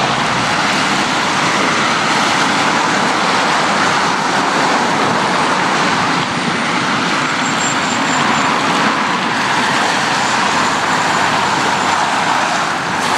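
Steady road traffic: cars passing on a street in a continuous, even hiss of tyres and engines with no single vehicle standing out.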